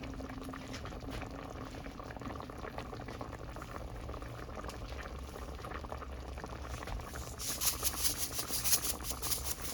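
Coconut milk sauce with chicken boiling in a pot, a steady bubbling that breaks into quicker, louder popping and spattering near the end.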